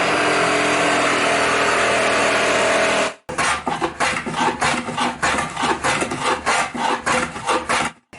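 A woodworking router spins steadily for about three seconds with a constant whine. After an abrupt cut come rhythmic rasping strokes on wood, about two or three a second, like wood being sawn or worked by hand.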